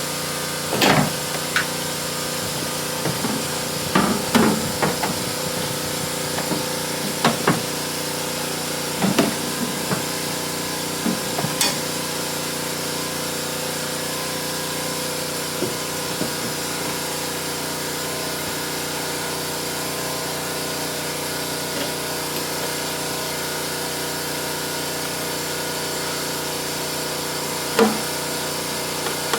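A steady mechanical hum that holds one pitch, with scattered sharp knocks and clinks of tools, several in the first dozen seconds and one more near the end.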